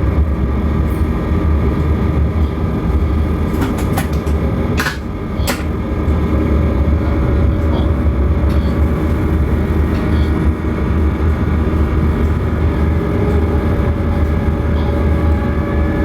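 Heavy diesel machinery running steadily, a deep low rumble with steady engine tones over it. A few sharp metallic clanks come between about three and a half and five and a half seconds in.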